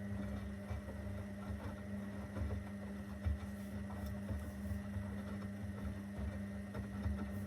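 Zanussi FL984CN washing machine running mid-cycle: a steady electric hum of fixed pitch over an uneven low rumble.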